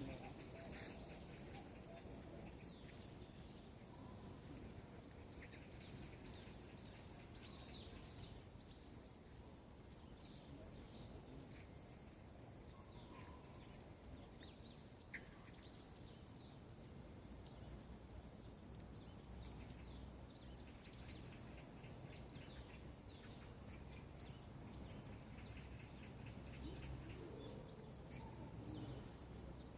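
Faint, scattered chirps from birds calling in the early morning, over a low steady outdoor rumble.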